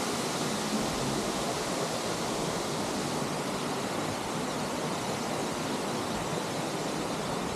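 Steady rushing of Kursunlu Waterfall's falling water.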